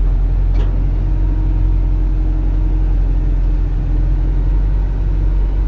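Isuzu NPS 4x4 truck's diesel engine running, heard from inside the cab: a steady low drone with a faint engine tone that slowly rises a little in pitch.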